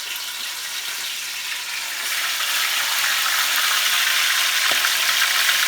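Chicken wings frying in a pot of hot oil: a dense crackling sizzle that grows louder about two seconds in.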